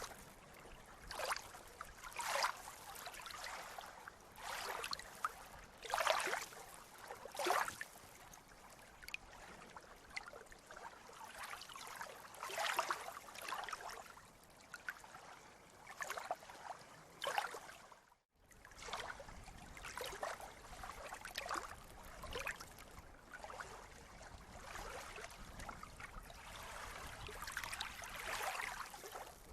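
Sea water lapping and splashing in short, irregular splashes every second or two, with a brief cut to silence about eighteen seconds in.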